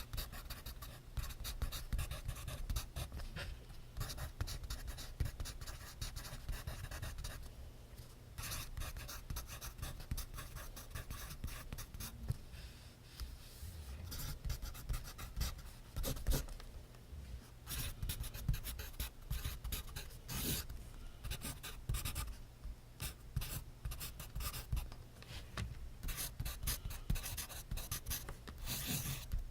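Pencil writing on paper in close-up: continuous scratchy strokes with short pauses between runs.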